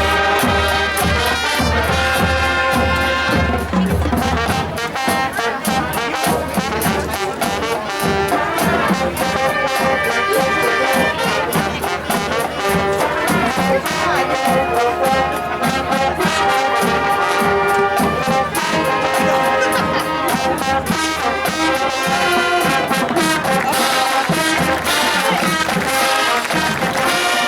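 Marching band playing a brass arrangement at full volume, with sustained trombone and trumpet lines over a driving drumline. Heavy bass drum hits sound in the first few seconds.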